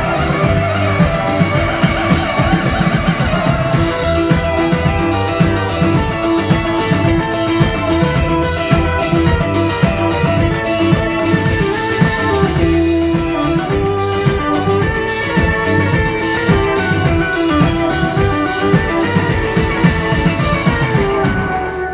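Live band playing an instrumental passage of a Turkish folk-rock song: plucked electric guitar lines over bass and drum kit, with the drums keeping a steady beat about twice a second through the middle. The music drops away right at the end.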